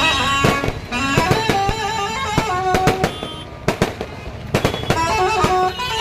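Firecrackers going off in irregular loud bangs, a few at a time, over music with a stepping melody.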